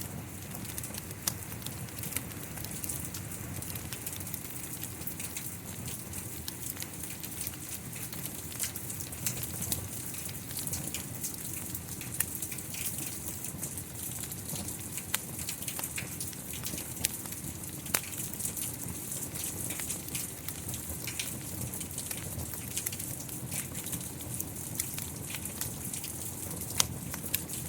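Steady rain hissing, with a fireplace fire crackling: frequent sharp pops and clicks over the even rush.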